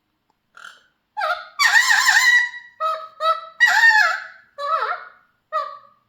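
Mealy Amazon parrot calling: a string of about eight short pitched notes, the two longest and loudest, about a second each, near the middle.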